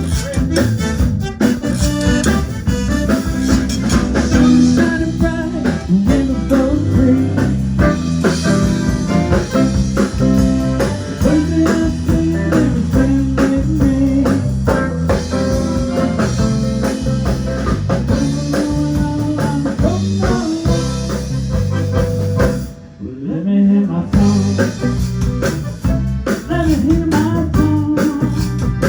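A band playing blues-style music with guitar, drum kit and singing, with a brief break about three-quarters of the way through.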